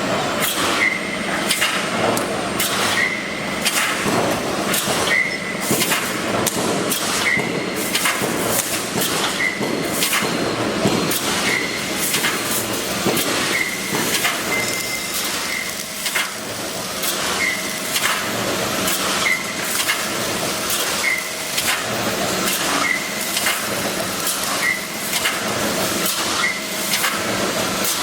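Fence panel mesh welding machine running through its repeated cycle: a constant clatter of sharp clanks and knocks over a steady hum, with a short high tone about every two seconds as the servo-driven mesh pull and weld strokes repeat.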